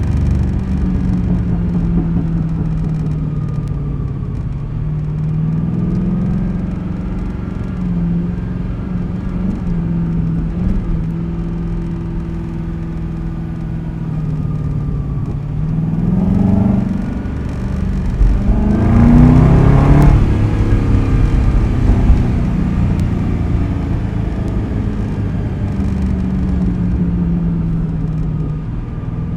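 A 2010 Ford Crown Victoria Police Interceptor's V8, running through a custom quad-tip exhaust, drones steadily at cruise. A little past the middle it accelerates, the note climbing and getting loudest, then eases back to a steady cruise.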